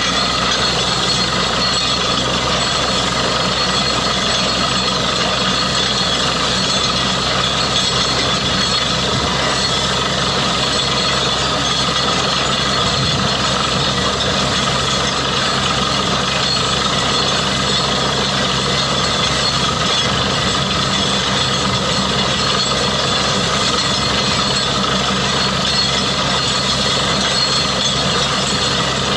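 Borewell drilling rig running steadily at work: a loud, unbroken mechanical din of engine and drilling with several steady tones.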